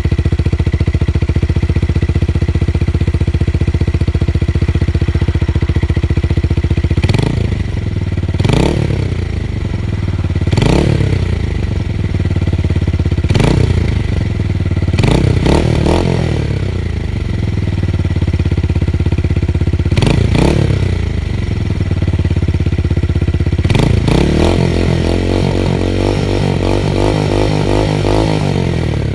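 Tuned motorcycle engine with a deep, bassy exhaust note, idling steadily, then revved in a series of quick throttle blips that each climb and drop back to idle. Near the end the revs are held up for several seconds, wavering, before settling.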